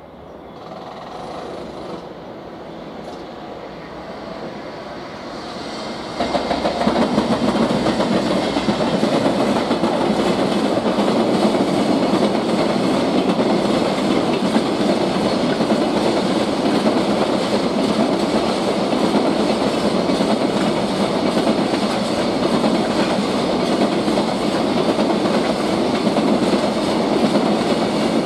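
Container freight train passing: the steady rumble and rattle of wagon wheels rolling over the rails. It grows louder over the first few seconds, then jumps suddenly in level about six seconds in.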